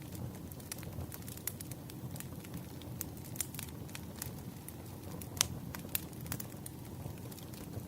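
Firewood burning: a steady low rumble of the fire with frequent, irregular sharp crackles and pops, the loudest two a little past the middle.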